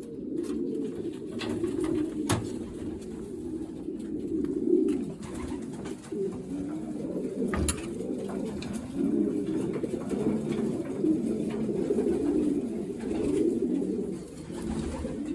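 Racing pigeons cooing together, a continuous low, overlapping warble with a few brief sharp clicks.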